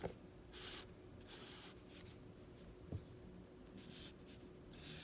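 A drawing tool scratching across paper in a few separate strokes, each about half a second long, with two soft knocks, one at the start and one about three seconds in.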